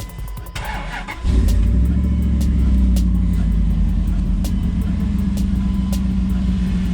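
A 2001 Dodge Durango's 4.7-litre V8 is cranked briefly by the starter, catches about a second in, and settles into a steady idle.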